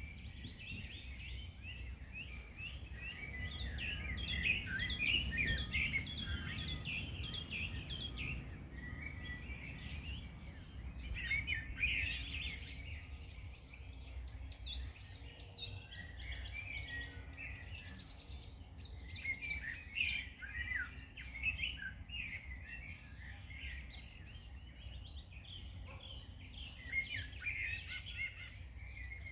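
Several birds singing and chirping at once in quick overlapping phrases, over a steady low wind rumble.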